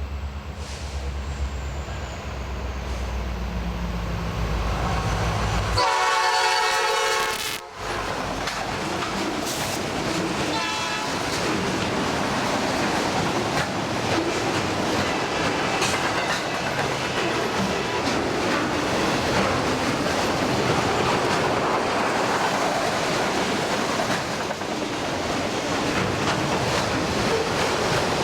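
A CN freight locomotive's diesel engine rumbles as it approaches, then its air horn sounds a chord for about a second and a half, with a short, fainter blast a few seconds later. The rest is the steady noise of the freight cars rolling past, their wheels clattering over the rail joints.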